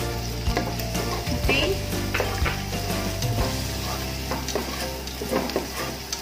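Diced onion and garlic sizzling in hot oil in a pot, stirred and scraped around with a slotted spatula in short strokes.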